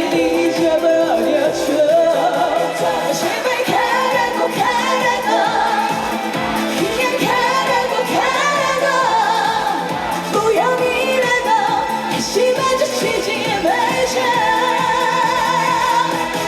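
A female vocalist singing a Korean trot song live over a backing band track with a steady beat, the held notes wavering with vibrato.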